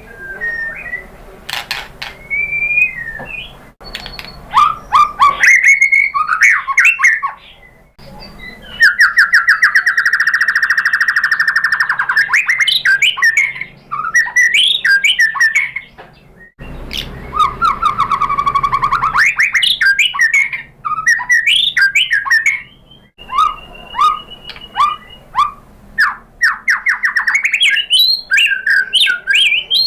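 White-rumped shama (murai batu) singing loudly in varied phrases of whistles and chattering notes, with two long, fast rattling trills, one about a third of the way in and another just past the middle.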